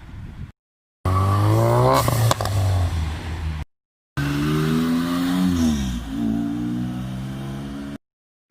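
A car engine revving hard as it accelerates, heard in two abrupt edited bursts separated by brief silences. Its pitch climbs, dips sharply and climbs again near the middle, with a couple of sharp cracks about two seconds in.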